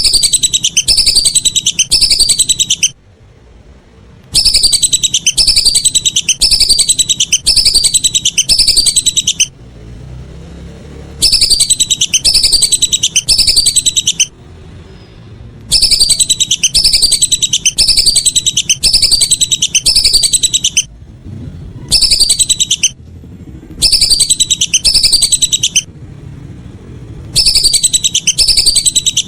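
Lesser whistling duck (belibis) calling: loud bouts of repeated falling whistles, about one and a half notes a second, each bout lasting a few seconds and broken by short pauses.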